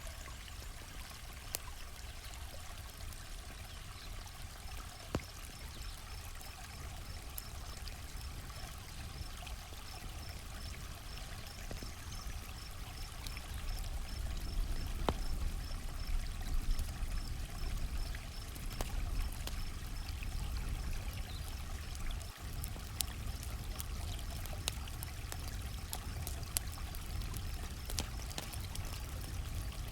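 Campfire crackling with scattered sharp pops, and a cricket chirping in a steady, even pulse, over a low steady rush.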